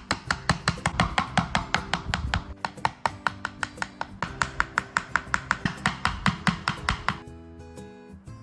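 Rapid, even chopping strokes, about six a second, over background music; the chopping stops about seven seconds in.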